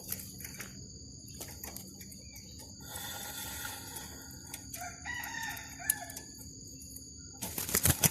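A bird calls for about three seconds in the middle, over a steady high-pitched drone of insects, with scattered clicks and a cluster of louder clicks near the end.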